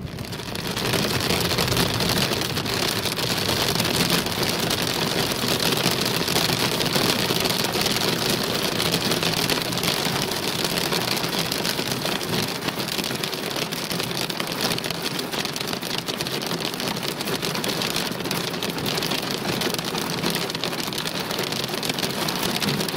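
Heavy thunderstorm downpour: a dense, steady patter of drops striking a hard surface, starting suddenly and holding level throughout.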